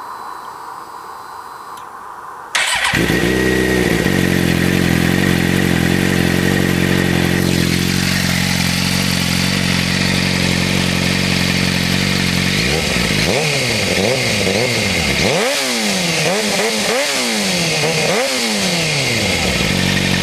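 2007 Suzuki GSX-R 600's inline-four engine with an M4 shorty aftermarket exhaust, starting up suddenly about two and a half seconds in and settling to a steady idle. In the second half, a run of throttle blips, each revving up and falling back, before it returns to idle.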